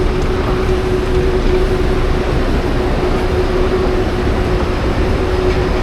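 Steady, loud vehicle running noise: a deep rumble with a constant humming tone over it.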